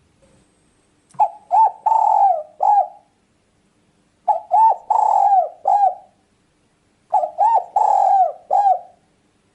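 Spotted dove (tekukur) cooing: three phrases about three seconds apart, each of four low notes, the third note drawn out and falling at its end.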